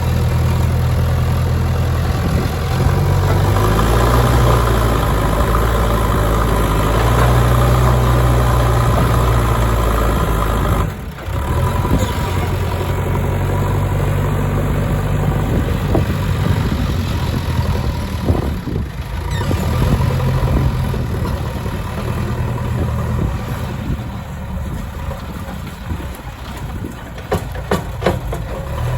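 JCB 3DX backhoe loader's diesel engine running under work, its note swelling and easing with load. A few sharp knocks come near the end.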